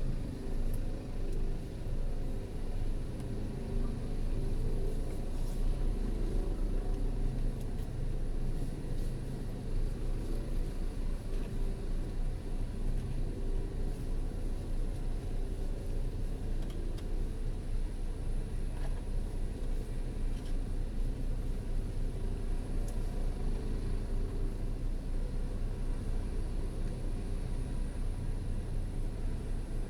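Helicopter hovering: a steady low rumble of rotor and engine with a fast flutter in loudness.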